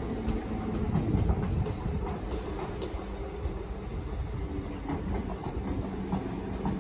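Royal Mail Class 325 electric mail train rolling past, a steady low rumble with wheels clicking over rail joints now and then and a faint motor hum.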